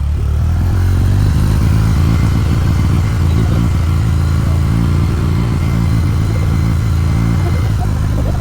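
Motorcycle engine running steadily under way, a deep, loud drone that builds slightly about a second in.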